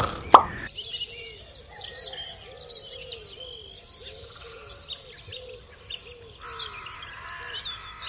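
A sharp tap, then birdsong begins abruptly: many quick chirps and calls, over a steady string of lower arched calls repeating about twice a second.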